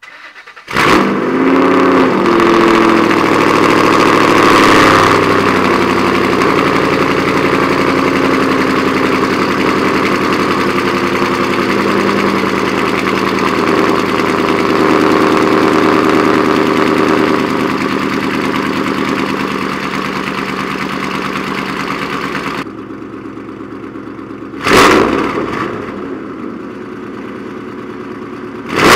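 2006 Ford Mustang GT's 4.6-litre V8 with long-tube headers and straight pipes starting from cold: a brief crank, then it catches with a flare and settles into a loud, fast cold idle. Near the end the idle drops, then the throttle is blipped twice, about four seconds apart.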